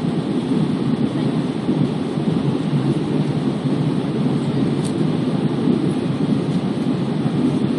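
Airbus A320 passenger cabin in flight: the steady, low noise of the engines and rushing air heard from inside, even and unbroken.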